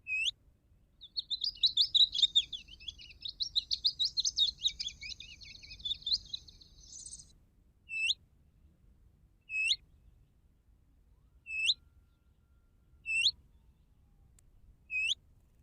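Small songbird's lure call, the 'shaheem' sought by trappers, played from a bird-call sound device: a scratchy chattering song lasts about six seconds, followed by single short upward-hooked call notes repeated about every one and a half to two seconds.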